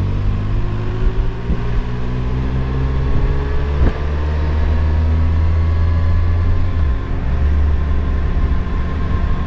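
Kawasaki Versys motorcycle engine pulling along on the road, its note rising slowly as it gains speed, with a brief drop about seven seconds in, over a heavy low rumble.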